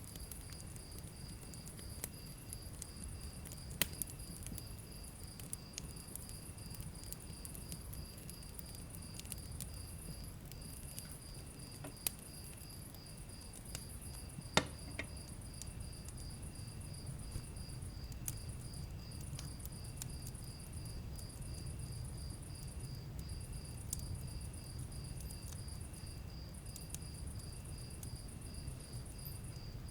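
Wood fire burning in a fireplace: a low rumble of flames with scattered crackles and sharp pops, the loudest pop about halfway through. A cricket-like insect chirps steadily over it, about three or four chirps a second.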